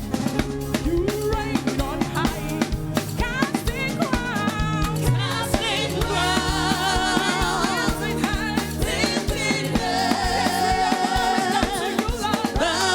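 Live gospel praise-and-worship music: a drum kit keeps a steady beat with snare and bass drum under pitched instruments and singing voices.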